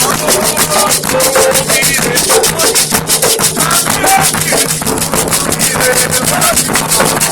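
Candomblé drumming for Xangô: atabaque hand drums playing a fast, dense rhythm, with a shaken rattle hissing on top.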